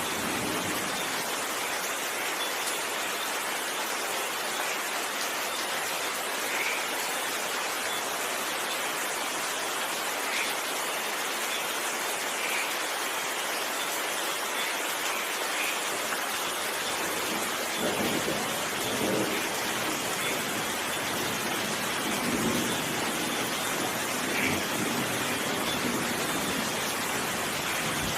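Steady heavy rain falling and pattering, with a few low rumbling swells in the second half.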